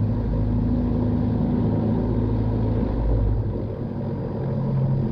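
Piper PA-46 Malibu's piston engine running at taxi power, a steady low drone. About three and a half seconds in, the note dips and settles at a different steady pitch as the power changes.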